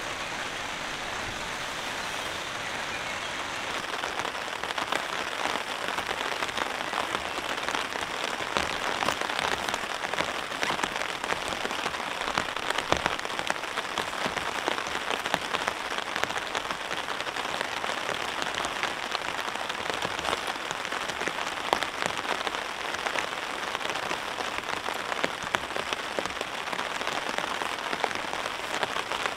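Rain falling steadily, with many close raindrop taps over a dense hiss; it grows louder about four seconds in.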